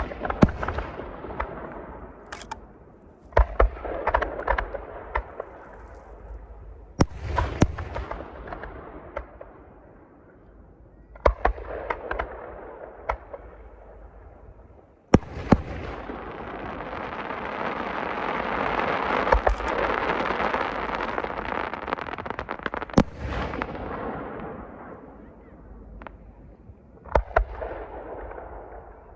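Aerial fireworks display: sharp booms of shells bursting every few seconds, each trailing off in an echoing rumble. In the middle a long, swelling rush of dense noise builds for several seconds before fading.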